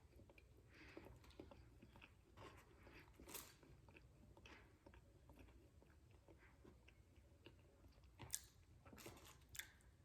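Faint mouth sounds of a person chewing a KFC fried chicken sandwich on glazed donut buns: irregular soft smacks and crunches, with a few louder ones about three seconds in and near the end.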